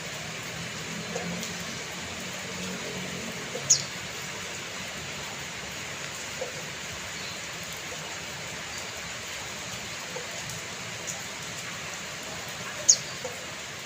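Steady rain falling, an even hiss. Twice, about nine seconds apart, a brief high chirp falling in pitch stands out above it.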